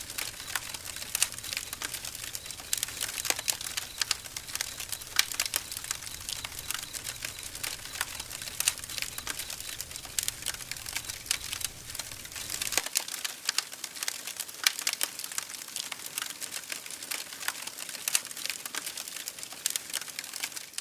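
Campfire crackling, with frequent irregular sharp pops and snaps over a soft hiss. A low rumble underneath stops about two-thirds of the way through.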